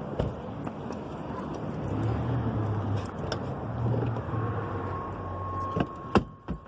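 Road vehicle noise, with a low hum that swells in the middle and fades, and a few sharp clicks and knocks near the end.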